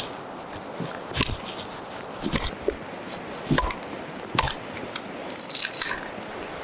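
Short sections of dry dead-standing wood being split into kindling: about four sharp knocks of a blade struck into the wood, then a brief rasping noise near the end.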